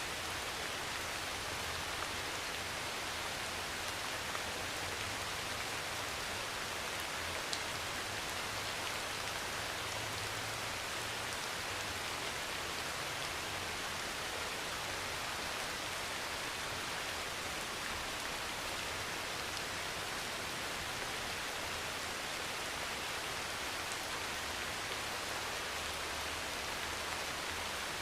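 Steady heavy rain pattering on a metal roof, with a few sharper single drop ticks now and then.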